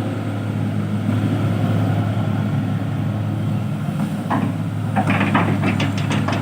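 Heavy machine engine running steadily at a constant low pitch, with a run of irregular clanks and clatters over it in the last couple of seconds.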